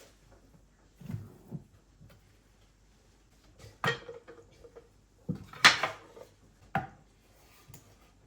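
A few separate household knocks and clatters, like drawers, cupboard doors and dishes being handled, one with a brief ring; the loudest comes a little past halfway.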